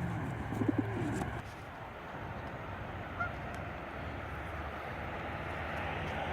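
A goose honks a few short, wavering times about half a second in, followed by steady outdoor background noise.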